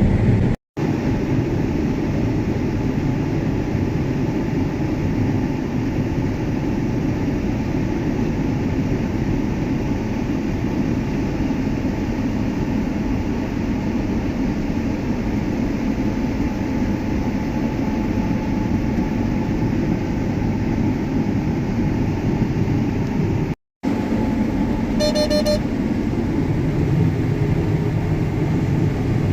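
John Deere S680 combine running steadily under harvest load, a constant deep mechanical rumble. The sound drops out completely twice for a moment, and a short electronic beep sounds near the end.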